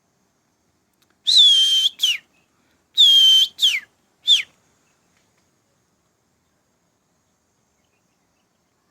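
A bird's whistled call given twice: each phrase a long clear note that dips slightly and holds, followed by a quick downward slur, then one more short falling note.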